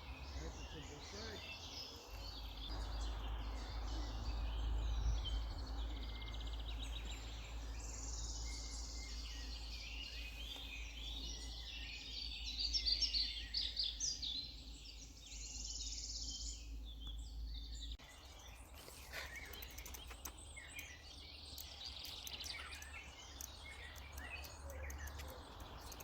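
Several songbirds singing and chirping in a spring forest, with short trills and twitters overlapping, over a low rumble of wind on the microphone that drops away about two-thirds of the way through.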